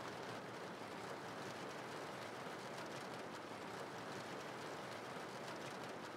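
Faint, steady rain ambience laid under the narration as a background sound bed.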